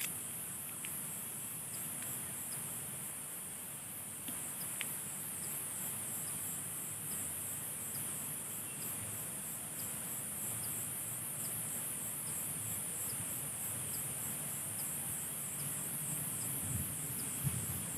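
A steady, high-pitched chorus of insects buzzing and shrilling, with a faint short chirp repeating a little more than once a second. A few low thumps come near the end.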